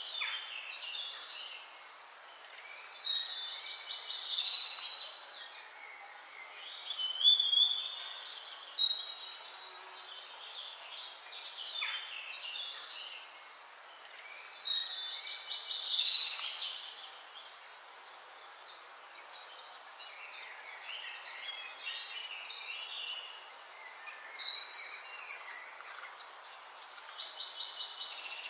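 Songbirds singing in a chorus of high chirps and trills, with louder song phrases standing out every several seconds over quieter, continuous calling.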